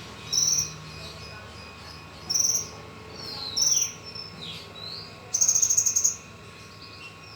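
A bird calling: short high chirps about every second or so, with some falling slurs, and a longer buzzy trill about five seconds in.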